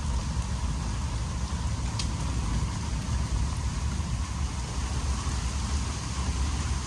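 Steady rain in a thunderstorm with a low wind rumble, and one sharp tick about two seconds in.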